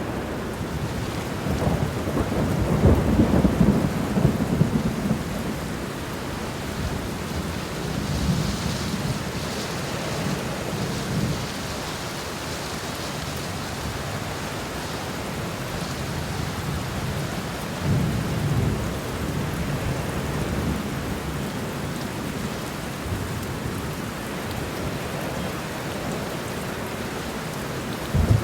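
Steady rain falling, with low rolling rumbles of thunder that swell and fade, the loudest about three seconds in and others around eight and eighteen seconds.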